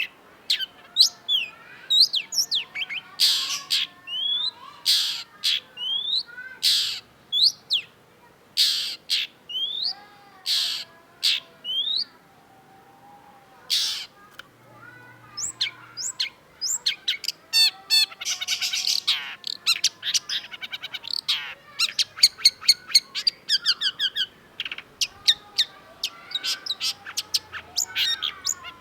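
Long-tailed shrike singing a long, varied song: harsh rasping notes mixed with quick rising whistled chirps, then, from about halfway through, fast chattering runs of rapidly repeated notes.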